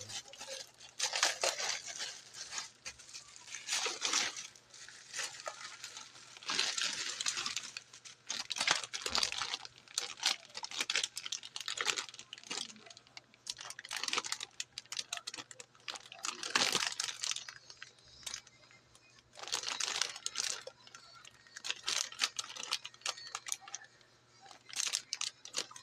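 Packaging wrapper being handled and unwrapped, crinkling in irregular bursts.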